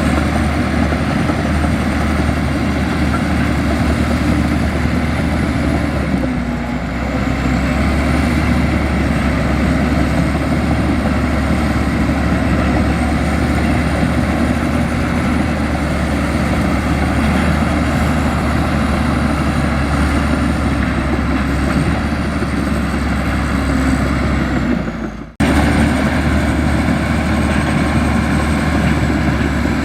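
Komatsu bulldozer's diesel engine running steadily under load, with a thin high whine that wavers up and down in pitch. The sound drops out abruptly for an instant about 25 seconds in.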